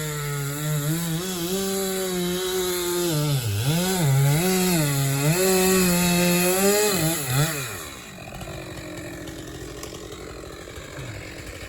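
Chainsaw cutting logs into smaller pieces, its engine speed dipping and recovering several times as it bogs under load in the wood. About seven and a half seconds in, the revs fall away and the saw goes quiet.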